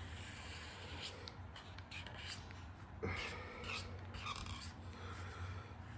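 Felt-tip marker strokes rubbing across paper in short irregular passes, the marker starting to run dry.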